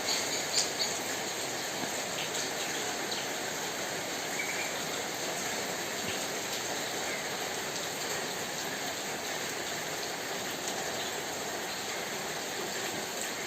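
Steady rain falling, an even hiss of drops with a few louder individual drops ticking near the start.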